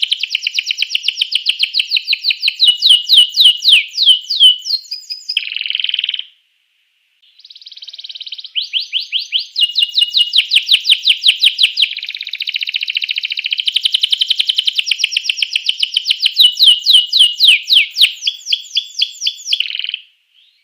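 Domestic canary singing a long song of fast trills, each a quick run of repeated notes. It breaks off for about a second near six seconds in, then starts again.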